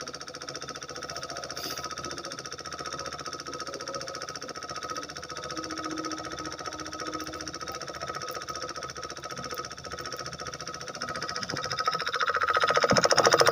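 Small homemade miniature engine running with a fast, even chatter and a steady whine. It grows much louder in the last two seconds.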